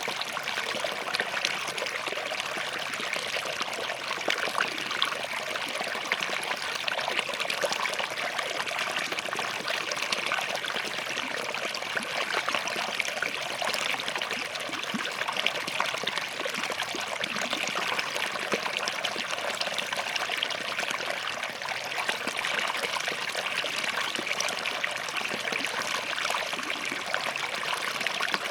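Small forest stream flowing and trickling over rocks, a steady splashing babble with no let-up.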